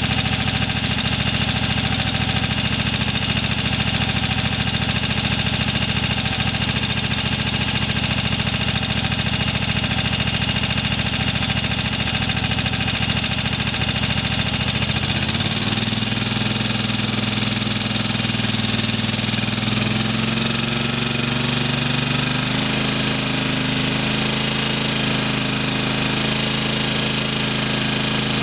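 Kohler 22 hp twin-cylinder engine from a Craftsman garden tractor running steadily with a low rumble; about halfway through its pitch rises as it speeds up, and it climbs again a few seconds later.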